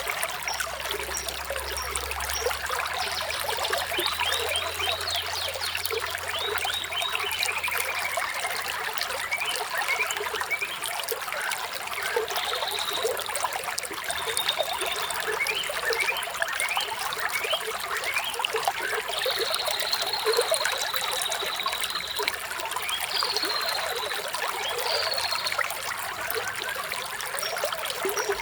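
Shallow water trickling and splashing steadily, with birds calling over it in short high whistles, one a longer held call about two-thirds of the way through.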